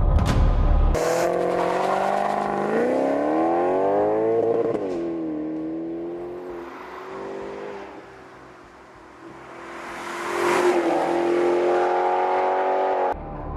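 A sports car engine accelerating, its pitch rising and then falling away as it fades. It grows louder and higher again near the end, then cuts off suddenly.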